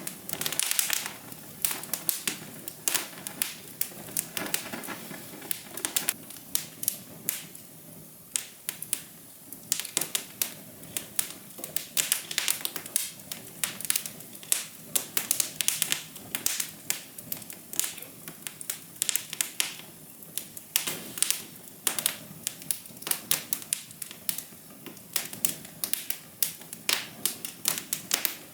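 Fire crackling: a dense, irregular run of sharp pops and snaps over a soft steady hiss.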